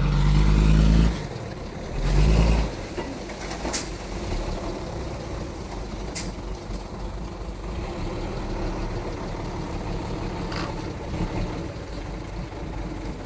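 Small Mitsubishi bulldozer's diesel engine working: two loud low surges in the first three seconds, then steady running with a couple of sharp clicks.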